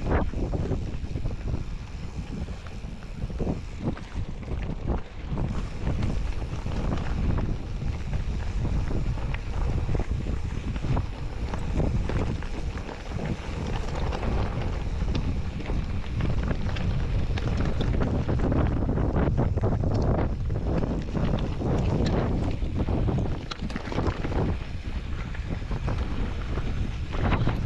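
Wind buffeting the microphone: a steady low rumble that rises and falls in gusts, with no other clear sound standing out.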